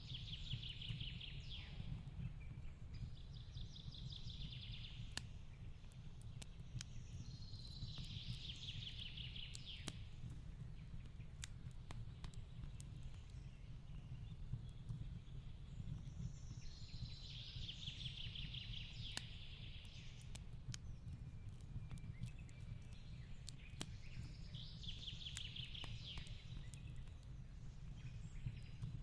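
Fireplace crackling with sharp scattered pops over a low steady rumble, while a songbird sings a rapid high trill four times, each phrase about two seconds long and roughly eight seconds apart.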